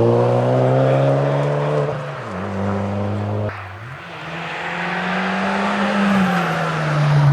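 Suzuki Swift Sport 1.4 rally car's engine at full throttle, its pitch climbing steadily, then dropping about two seconds in as the driver lifts. It cuts off sharply a moment later, then climbs again under acceleration and holds high near the end.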